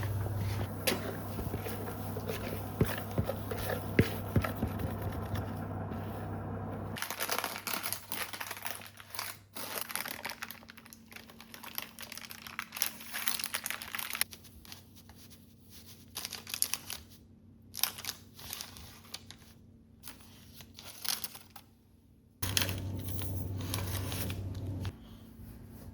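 Crinkling and rustling with many small clicks and knocks. Over them runs a steady hum that stops about seven seconds in and comes back briefly near the end.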